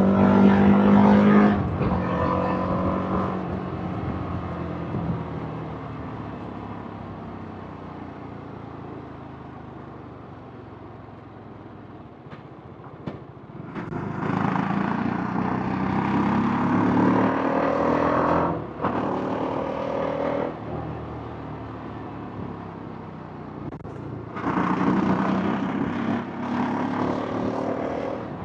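TVS Apache RR310's single-cylinder engine and exhaust under a POV rider's throttle: a hard pull that cuts off a second or two in, then a long coast with the note fading away. It pulls again with a rising note about halfway through, breaks briefly for an upshift, and picks up once more near the end.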